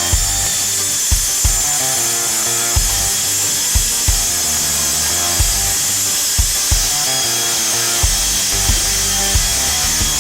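Bosch GKM 18V-LI cordless metal circular saw running with a steady high whine, under background music with a beat of low thumps about once a second.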